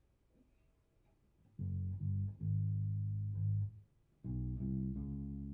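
Electric bass guitar, tuned down a half step, played through a Fender Rumble 100 V3 bass amp at a soft level. After about a second and a half of near quiet, a few held notes sound, then a short break, and a second phrase starts about four seconds in.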